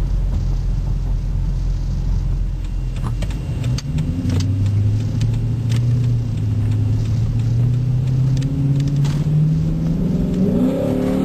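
Dodge Charger R/T's 5.7-litre Hemi V8 through a Zoomers aftermarket exhaust, heard from inside the cabin. A low rumble at first, then from about four seconds in the exhaust note climbs steadily as the car accelerates, rising faster near the end.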